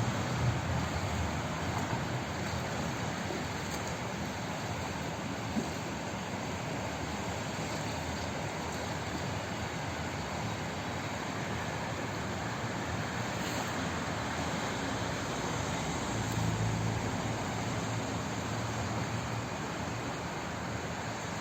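Water flowing in a steady, even rush, with a low rumble swelling slightly about sixteen seconds in.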